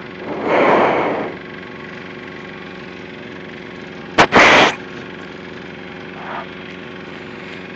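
Light aircraft engine idling steadily, a low hum with a constant tone. A short rush of noise comes about a second in, and a sharp click followed by another brief rush of noise comes about four seconds in.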